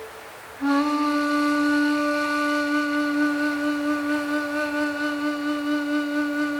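Ambient music: a flute-like wind instrument comes in about half a second in and holds one long low note with a slight waver, over a soft breathy hiss.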